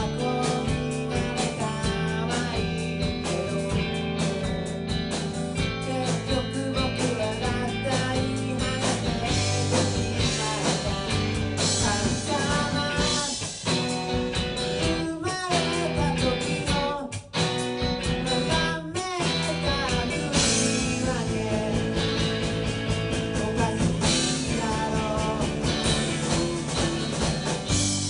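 Rock band playing live: electric guitars, bass and drums with a singer's voice over them, the music dropping out for a moment a few times in the middle.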